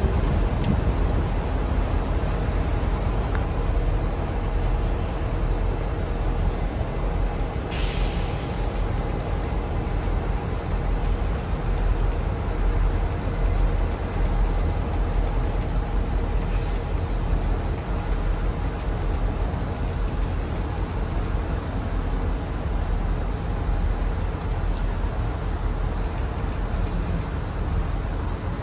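A train running steadily close by: a constant low rumble with a steady hum. A short burst of air hiss comes about eight seconds in, and a fainter one about sixteen seconds in.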